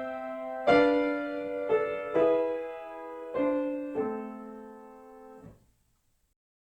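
Background piano music: a handful of slow, sustained chords, struck about once a second, that cut off suddenly about five and a half seconds in.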